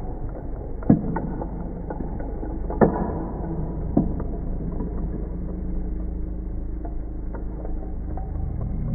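Earthquake simulator exhibit running: a low steady rumble with rattling clicks and three louder knocks in the first half. A steady low hum joins about halfway through.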